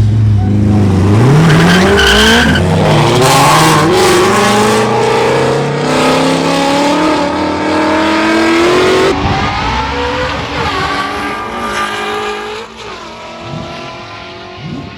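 Street cars racing flat out from a rolling start, the engine note climbing through the gears with an upshift every couple of seconds. About nine seconds in, the sound changes abruptly and the engines fall away and fade.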